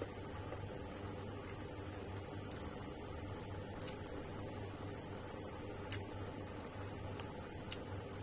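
Quiet chewing of juicy pineapple and mango chunks with the mouth closed, with a few faint clicks from a plastic fork picking fruit out of a plastic bowl, over a steady low hum.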